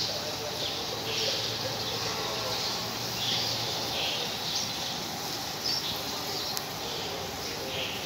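Small birds chirping repeatedly in the background, over a faint low steady hum that stops about four seconds in.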